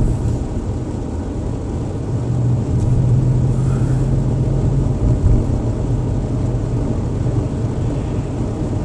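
Road and engine noise inside a moving car's cabin: a steady low rumble with a droning hum that swells for a few seconds in the middle.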